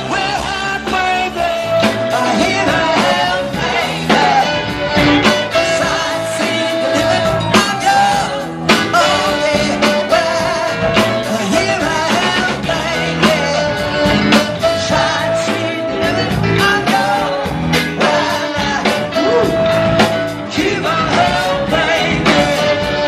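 A live band playing an up-tempo rock and roll number with a singer and a steady drum beat, with repeated held notes throughout.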